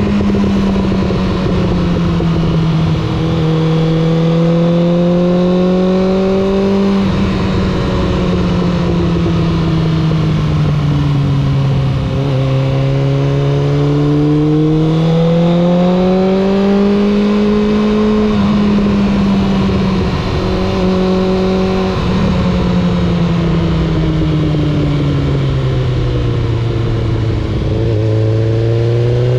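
Suzuki GSX600F's inline-four engine and exhaust under way on the road. The engine note rises and falls in long smooth sweeps as the rider opens and eases the throttle.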